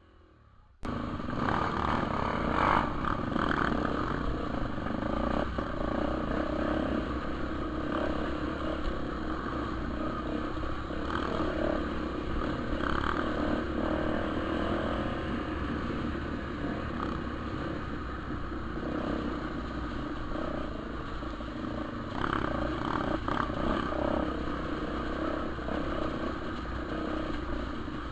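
Trail motorcycle engine running steadily while riding, its pitch rising and falling a little with the throttle. It cuts in abruptly about a second in.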